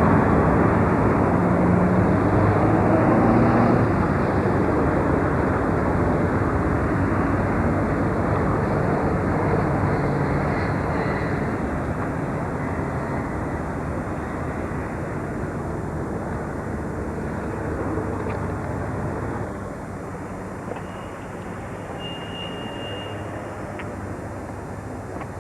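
Steady city traffic noise, loudest at first and slowly fading. A short high tone sounds a few seconds before the end.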